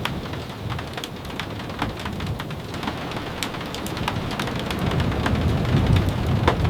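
Steady rain with scattered sharp ticks of drops tapping. A low rumble swells over the last couple of seconds.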